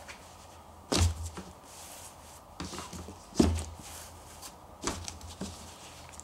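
Handling noise: a few sudden dull knocks and thumps, the two loudest about a second in and about three and a half seconds in, with a smaller knock near five seconds.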